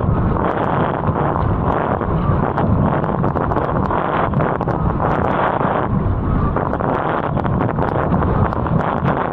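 Strong wind buffeting the camera's microphone while wing foiling at speed: a steady, loud rushing noise with a rumbling low end, with scattered small ticks throughout.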